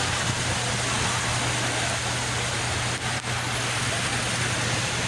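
Steady rushing of the sea, a continuous wash of water noise, with a constant low hum underneath and a brief dip about three seconds in.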